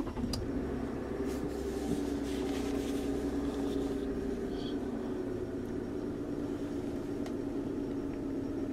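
Car engine just started and idling steadily at about 1,000 rpm, heard from inside the cabin.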